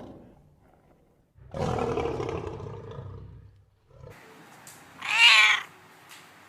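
A big cat roaring, a rough call of about two seconds, followed about three seconds later by a short, higher call that bends in pitch.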